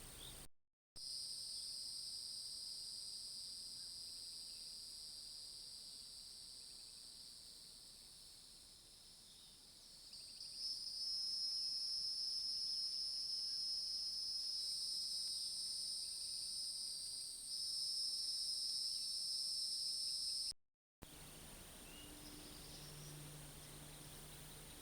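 Insect chorus buzzing steadily in high pitches, getting louder about ten seconds in. It cuts off abruptly near the end, leaving a quieter background with a low hum.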